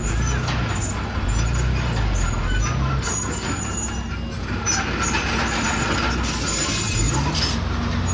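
Komatsu D31PX crawler dozer's diesel engine running under load, its pitch rising and falling as the load changes.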